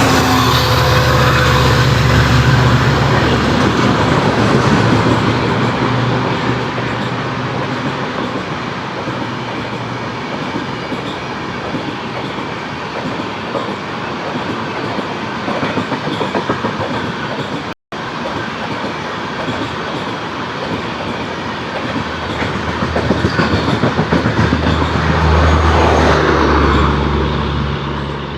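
Indian Railways WAP-7 electric locomotive and its train passing at high speed: steady loud rolling noise with wheels clattering over the rail joints. A deeper hum is heard near the start and again near the end, and the sound drops out briefly about 18 seconds in.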